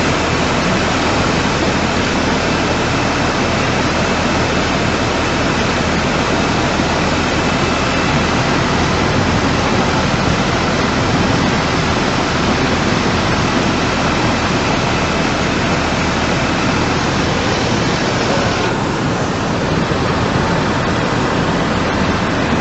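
Steady, loud rush of fast-flowing floodwater, an even roar with no breaks; the hiss in it thins a little about three-quarters of the way through.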